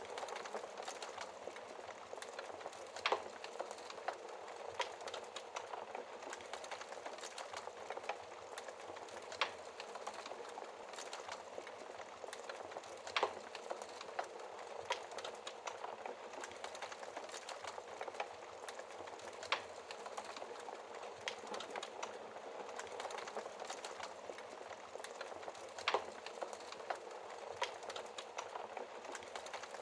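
Wood fire burning in a fireplace: a steady soft crackle and hiss, with a sharp louder pop every few seconds.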